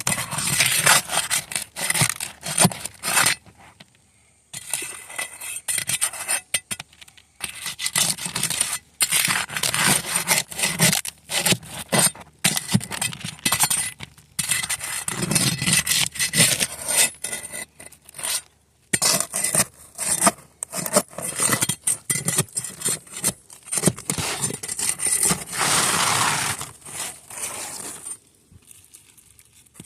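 Irregular scraping and rubbing against a rough, gritty surface, with clicks and several short pauses.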